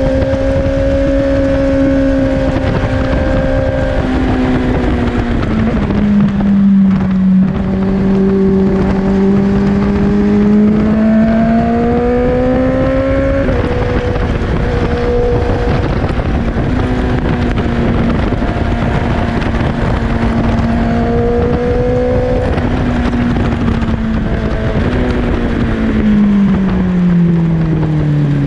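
Four-cylinder sport motorcycle engine under way, heard over heavy wind rush, its pitch rising and dropping with throttle and gear changes. It climbs steadily through the middle and falls away near the end as the bike slows for a bend.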